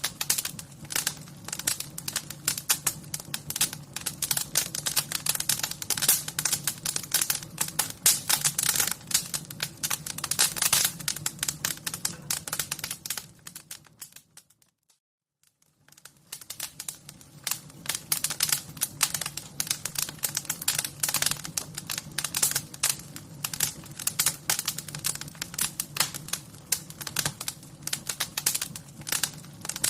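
Wood fire crackling: a dense, irregular stream of sharp crackles and pops over a low steady rumble. About halfway through it fades to near silence for a couple of seconds, then fades back in.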